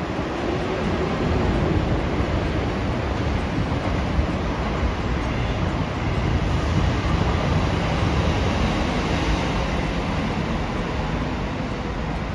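A train running past: a steady running noise that holds at an even level throughout, with no clear rhythm of wheel beats.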